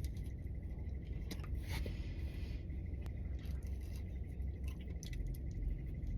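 Someone chewing a flaky croissant: soft scattered crunches and wet mouth clicks over a steady low rumble.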